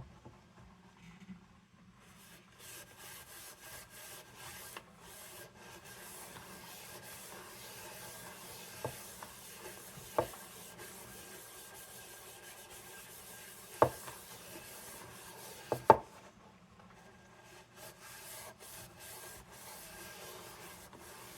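Hand-polishing the metal of a vintage cold-blast lantern: a steady rubbing and scrubbing that pauses briefly near the end, broken by a few sharp clicks and knocks as the lantern is handled.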